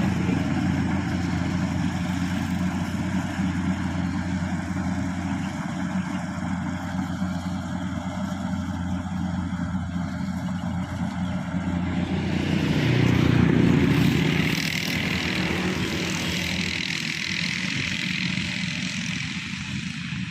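Kubota corn harvester's engine running steadily under load. About two-thirds of the way through it grows louder for a few seconds, and a rushing, hissing noise from the machine follows.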